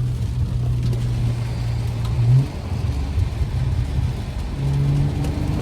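BMW 535i's N55 turbocharged inline-six with resonator and muffler deleted, running at a steady drone while driving. About two and a half seconds in the note rises briefly, then drops to a rougher, lower rumble, and a steady drone returns near the end.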